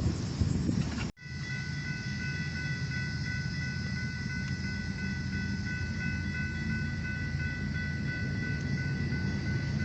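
Train on the rails: a steady low rumble with several steady high-pitched tones over it. It begins after an abrupt cut about a second in.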